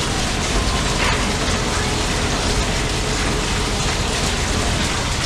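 Heavy monsoon rain falling steadily, a dense even hiss of drops without a break.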